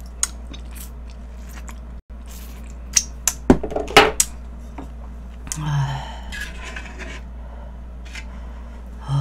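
Close-miked chewing of a mouthful of noodle-soup food, with wet mouth smacks and a cluster of loud sharp clicks between about 3 and 4.5 seconds in.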